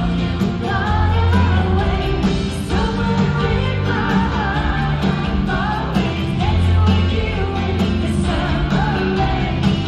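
Live pop-rock band playing with a woman singing over drums, bass and guitars, recorded from the audience of a large hall.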